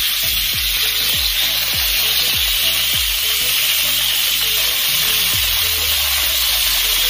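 Marinated chicken pieces frying in hot oil in a kadai: a steady, loud sizzle.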